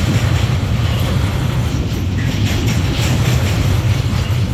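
Container-laden freight wagons rolling past on the track: a steady, loud rumble of steel wheels on the rails.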